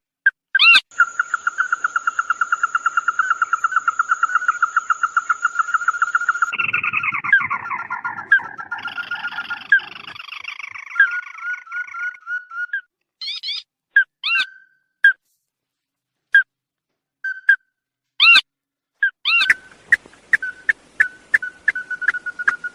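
Calls of the bird known in Vietnamese as "chim mắt đỏ" (red-eyed bird): a fast steady trill of repeated notes at one pitch for about six seconds, then a jumbled run of notes, then single sharp whistled notes and chirps with silent gaps between, and a quick run of notes near the end.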